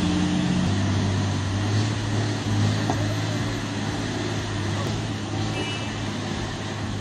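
Heavy truck's engine running steadily, a low drone with road noise.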